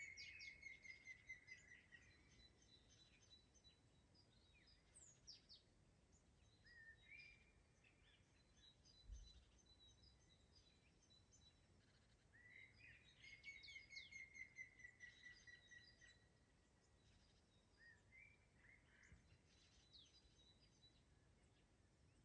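Forest songbirds singing faintly: a long rapid trilled phrase near the start and again about twelve seconds later, with shorter chirped phrases between. A single soft low bump about nine seconds in.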